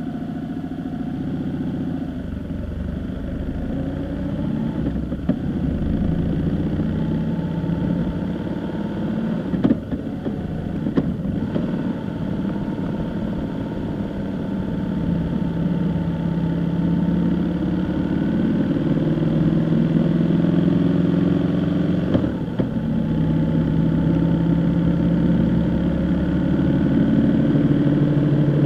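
A vehicle engine running while driving, its pitch rising and falling with speed, with a few short knocks along the way.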